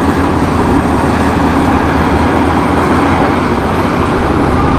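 Loud, steady rumbling engine noise, as of a heavy motor vehicle, that cuts in suddenly and holds evenly throughout.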